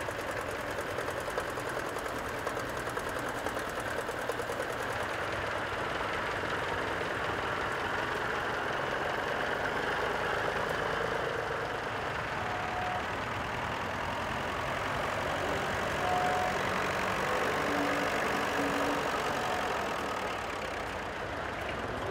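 Vintage tractor engines running steadily, with the uneven knock of old engines at low revs.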